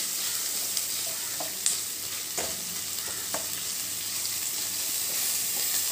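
Chopped onions, green chillies and tomatoes sizzling in hot groundnut oil in a kadai, with a steady hiss, while a ladle stirs them, tapping and scraping against the pan a few times.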